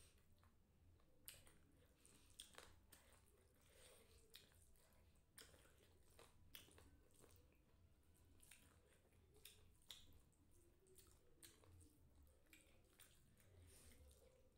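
Faint chewing of a mouthful of noodles, with scattered short clicks from the mouth.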